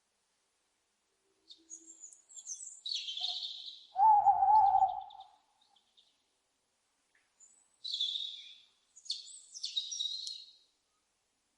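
Owls calling: rasping, hissy high screeches come twice, and about four seconds in a loud, wavering lower hoot lasts about a second.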